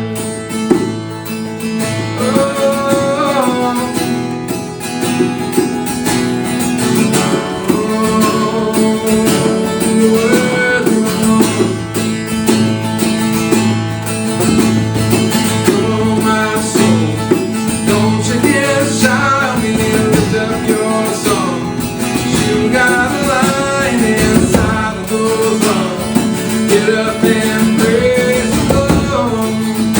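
Acoustic worship music: a strummed acoustic guitar with a voice singing a melody.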